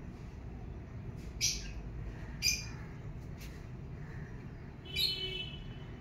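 A bird calling three times, short high chirps about a second and a half, two and a half, and five seconds in, the last a little longer, over a steady low background rumble.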